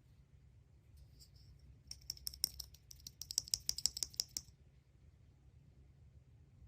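A quick run of small, sharp clicks and crackles, about eight a second, lasting roughly two and a half seconds from about two seconds in, from a surprise egg and its packaging being handled and opened.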